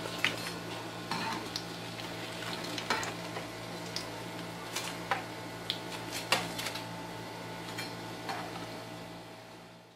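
Breaded bread pizza pockets sizzling as they shallow-fry in oil in a pan. A metal slotted spoon clicks and scrapes against the pan a dozen or so times as they are turned and lifted out. The sizzle fades away near the end.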